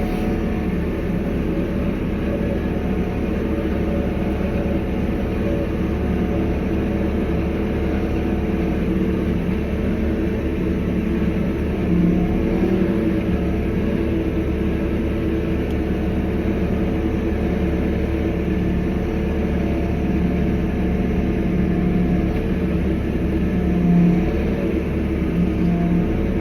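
Vehicle engine running steadily under load, an even drone that swells slightly in pitch twice, about halfway through and again near the end.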